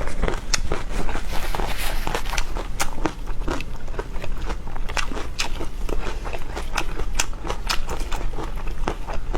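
Close-miked eating: crisp bites and crackling crunches, several a second, with chewing.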